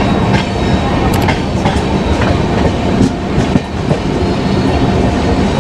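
Moving passenger express train, heard from an open coach door: a steady rumble of coaches and wheels, with irregular clacks as the wheels run over rail joints and points.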